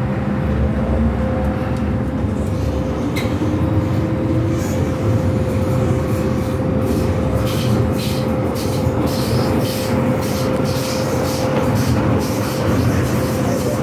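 MTR Tsuen Wan Line M-Train running on the rails: a steady rumble with a constant hum, and a faint whine rising in pitch over the first few seconds. Sharp ticks come in through the second half.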